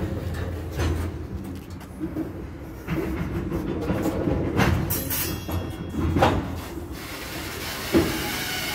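Freight train of covered hopper cars rolling slowly past: a steady low rumble of steel wheels on rail with irregular clunks, a brief high squeal about five seconds in, and a hiss over the last couple of seconds.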